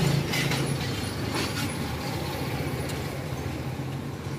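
A motor vehicle's engine running with a steady low hum that slowly fades away, with a few short high clicks or squeaks in the first two seconds.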